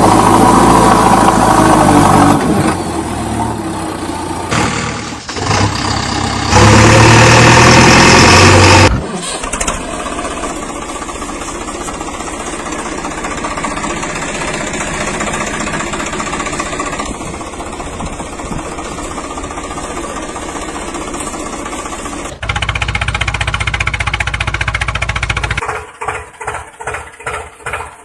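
Background music for the first couple of seconds. After several abrupt cuts, an engine runs steadily, and near the end it turns to a rapid, even pulsing.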